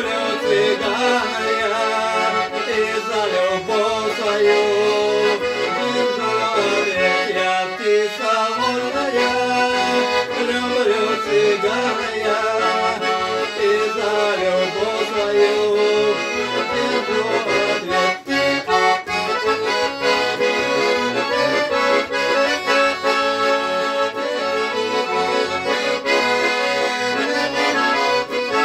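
Accordion playing an instrumental passage of a folk-style song: a melody over a steady, pulsing bass-and-chord accompaniment.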